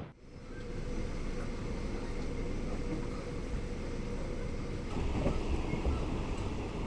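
Passenger train running: a steady rumble with a faint steady hum, growing a little louder and rougher with low knocks about five seconds in.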